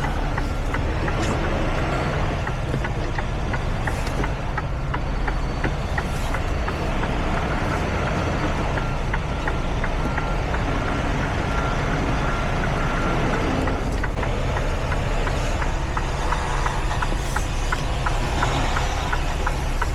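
Semi-truck diesel engine running at low speed while reversing, with a steady run of light, regular clicks. A reversing alarm beeps over it from about two seconds in until past the middle.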